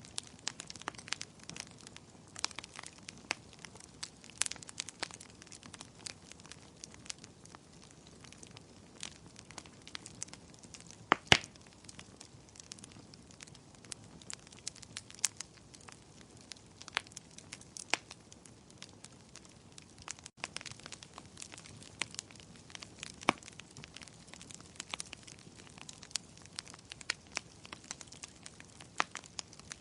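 Fire burning in a fireplace, crackling and popping irregularly over a soft low hiss, with one louder pop about eleven seconds in.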